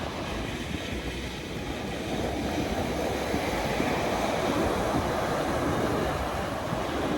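Strong Atlantic surf breaking on a sandy beach at high tide: a steady rush of waves.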